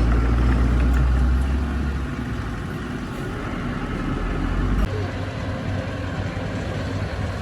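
Diesel engine of heavy earthmoving machinery running steadily with a deep rumble. The lowest rumble drops away about two seconds in, and the sound changes abruptly about five seconds in.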